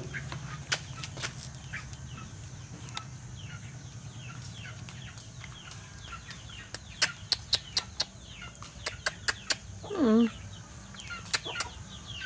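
Chickens: chicks peeping in many short, falling chirps while hens cluck, with sharp clicks scattered through and one louder, lower call about ten seconds in. A steady low hum runs underneath.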